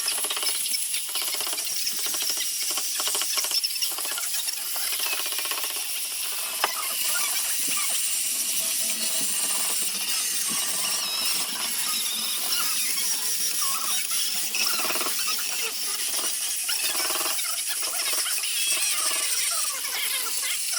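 Sandpaper sanding a zelkova wood basket: a steady, scratchy hiss with many short rasping strokes.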